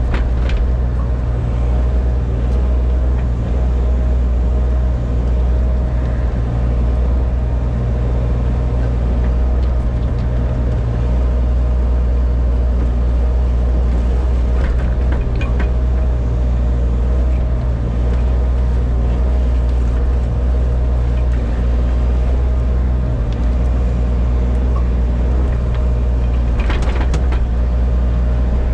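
Diesel engine of a compact excavator running steadily under load while grading soil with a tilt bucket, a steady low drone with a few faint clicks and knocks.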